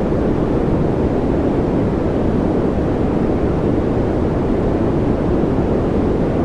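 A steady, unchanging white-noise track for focus and relaxation, weighted toward the low end: a deep, even rush with little high hiss.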